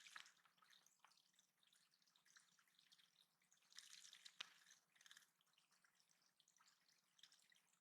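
Faint trickling and dripping of a small backyard water feature, a recirculating woodland stream and bird pond, with scattered small splashes and a sharper click about halfway through.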